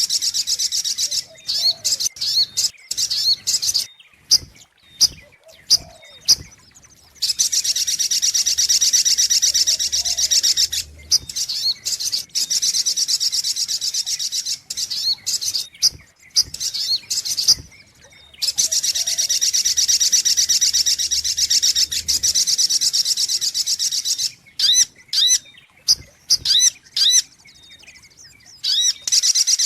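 Recorded sogok ontong sunbird song played as a lure call: high-pitched chirps in quick, separate notes, broken by two long, fast trills of about ten and six seconds.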